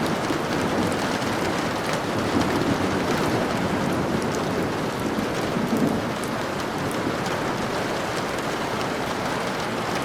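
Steady rain falling, a dense hiss with fine drop ticks. A low rumble runs underneath and dies away about six seconds in.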